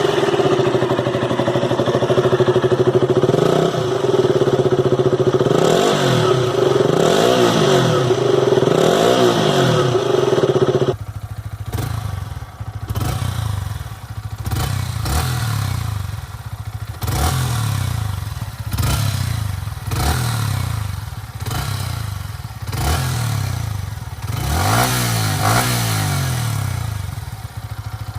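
Two single-cylinder motorcycle engines recorded at the exhaust, one after the other, with a sudden change to the second bike about 11 seconds in. The first idles with a steady high hum and is revved several times in quick blips. The second idles lower and is blipped repeatedly, each rev rising and falling.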